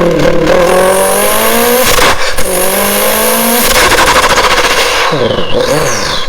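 Car engine accelerating hard, climbing in pitch through one gear, dropping at a shift about two seconds in and climbing again, with a high hiss over it. Near the end the pitch wavers quickly up and down.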